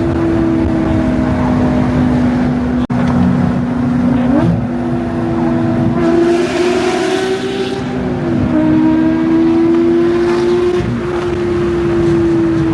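Porsche 992 GT3's naturally aspirated flat-six engine running at high revs, its note holding steady for seconds and shifting pitch a few times. The sound cuts out for an instant about three seconds in.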